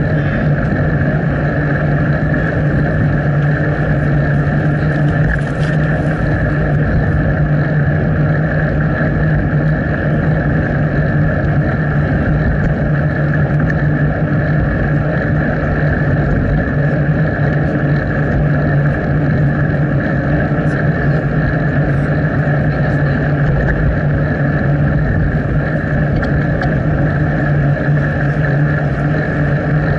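Steady wind and rolling noise on a bicycle-mounted action camera's microphone during a ride: a constant low rumble with a hiss over it, unbroken and even throughout.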